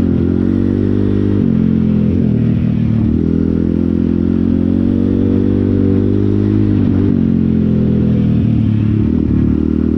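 Pit bike engine running steadily at low to moderate speed, its pitch dipping and rising slightly a few times.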